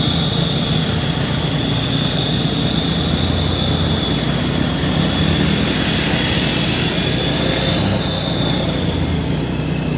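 Heavy truck running steadily with a low engine drone, and a high steady whine over it.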